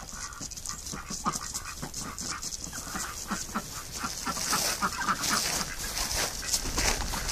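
Birds on ice making a growing patter of light taps and scrapes as they peck and scratch, with a few brief soft calls.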